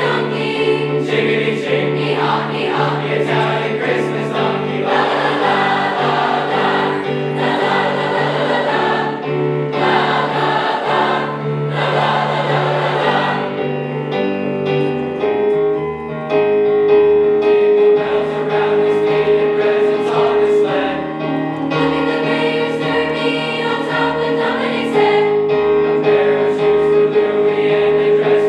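High school choir singing a song with instrumental accompaniment: held sung notes over a steady bass line, with a rhythmic beat through the first half.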